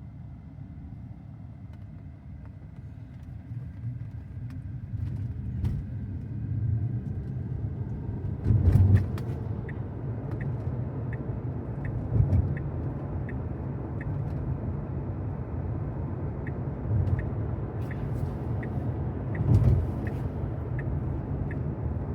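Road and tyre noise inside the cabin of a Tesla Model Y Performance electric car, growing louder as the car picks up speed over the first several seconds, with a few low thumps from bumps in the road. From about ten seconds in, the turn-signal indicator ticks steadily, about three ticks every two seconds.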